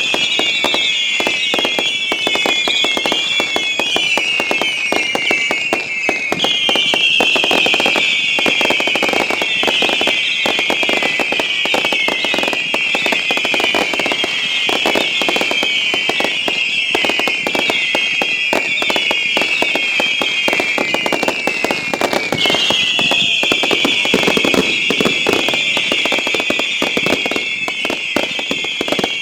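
Fireworks show with a massed barrage of whistling effects: many overlapping whistles, each falling in pitch, over constant crackling and popping. The whistles come in waves, with fresh volleys starting about six seconds in and again about twenty-two seconds in.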